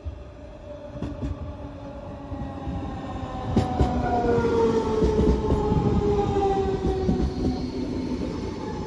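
Electric multiple unit of the DB class 424/425/426 family running in, its traction motor whine falling slowly in pitch as it slows, over a rising rumble of wheels on rail. A few sharp clicks come about three and a half seconds in.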